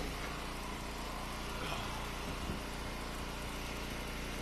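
Engine of an Eastonmade hydraulic wood splitter idling steadily, an even low drone with no change in speed.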